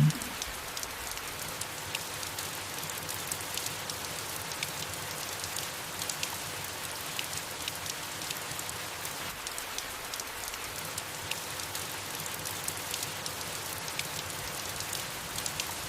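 Steady soft rain falling on leaves, an even hiss with many small drop ticks.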